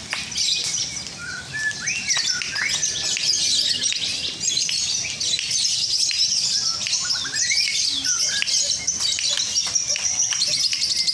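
Many lovebirds singing at once in a dense, unbroken high chattering trill, as at a lovebird singing contest.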